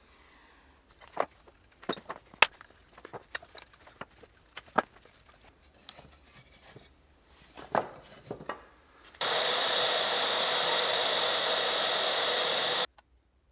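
Scraping, scratching and small knocks of hand tools on the wooden parts of a Fender Rhodes keyboard as the key pedestals are cleaned and a line is scribed across them. About nine seconds in, a loud, steady rushing hiss starts abruptly and cuts off just as suddenly nearly four seconds later.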